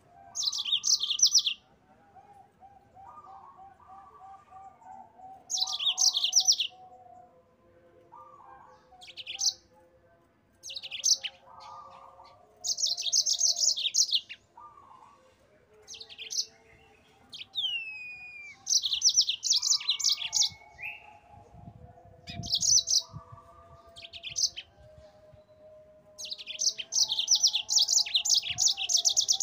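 Yellow-fronted canary (Mozambique singer) singing: loud bursts of rapid, high trilled song, each about a second long, repeating every few seconds, over fainter, lower bird calls.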